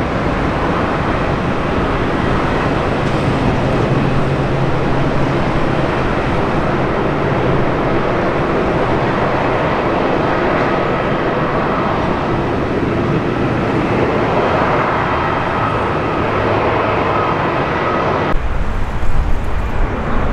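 Jet airliner engines running loud and steady, with faint whining tones over the noise. Near the end the sound breaks off abruptly and gives way to a deeper, uneven rumble with a few sharp knocks.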